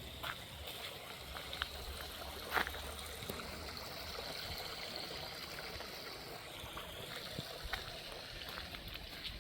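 Water running steadily, with a few faint clicks over it.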